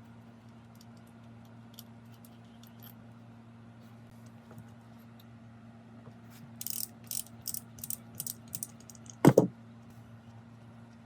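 Small metal parts clinking and rattling for about two seconds, then a sharp double knock, over a steady low hum.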